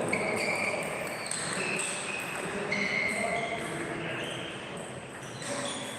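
Table tennis hall sounds: ping-pong balls knocking off tables and bats in short, ringing ticks, over a murmur of background voices in a large echoing room.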